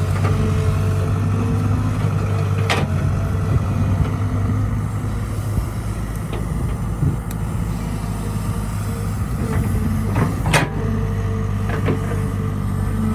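Heavy diesel machinery engine running steadily, with sharp metallic clanks every few seconds; the loudest comes about ten seconds in.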